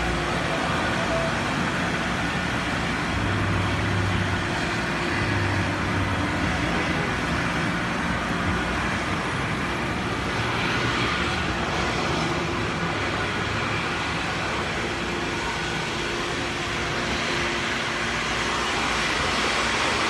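Steady motor-vehicle noise with a low engine hum, holding at an even level.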